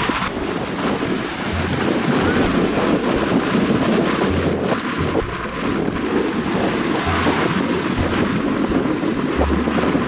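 Strong wind buffeting the microphone over rough sea, a steady loud rush with waves beneath it.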